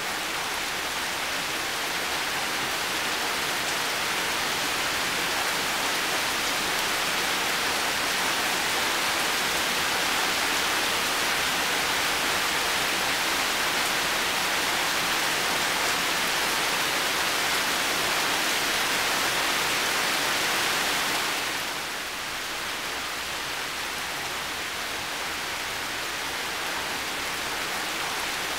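Heavy rain falling steadily, a dense even hiss of many drops. It eases slightly about three quarters of the way through.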